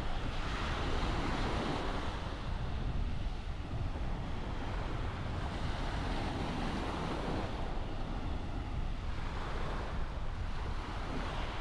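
Small waves washing up on a sandy beach, a surge of surf every four to five seconds, with wind rumbling on the microphone.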